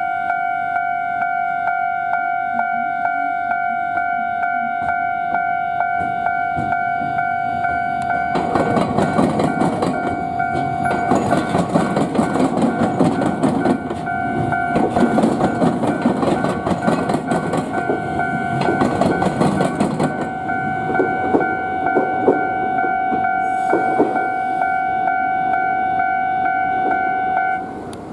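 Railway level-crossing alarm ringing steadily; it stops just before the end. From about eight seconds in, an Iyotetsu 3000-series train passes over the diamond crossing. Its wheels clatter rhythmically over the crossing's rail joints, louder for about twelve seconds, then thinning out to a few clacks.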